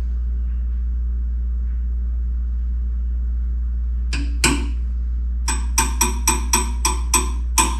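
Metal wrenches clinking: a single ringing clink about four seconds in, then a quick run of about eight ringing clinks, roughly three a second, over a steady low hum.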